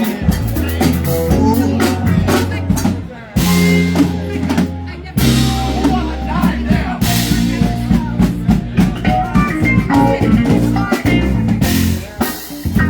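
Live rock band playing an instrumental passage: drum kit with several cymbal crashes, electric guitar, and a steady bass line underneath.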